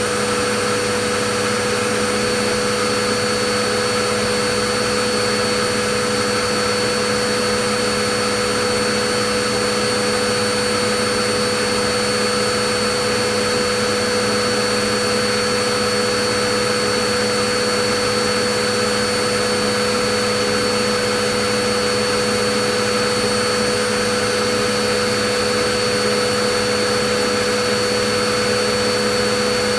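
Vacuum cleaner running steadily: an even rushing noise with a constant motor whine, never changing.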